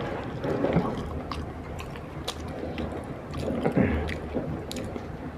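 Close-miked chewing of soft food, with wet squishy mouth sounds and scattered short smacks.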